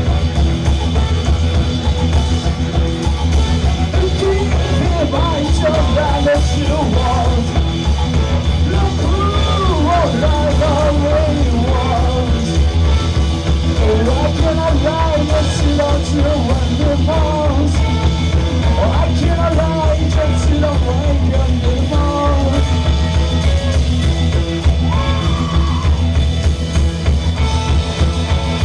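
Live rock band playing a loud, bass-heavy improvised jam with drums, basses and guitars, with a voice singing and yelling over it from about four seconds in until near the end.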